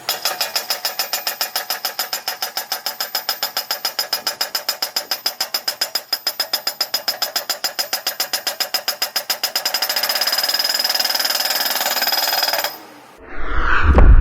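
Eterra PDX-750 skid steer post driver's hydraulic breaker-style hammer pounding a post, with rapid blows at about seven a second that run together into a steady rattle for the last few seconds before stopping abruptly. A brief sweeping sound and a loud low rumble begin near the end.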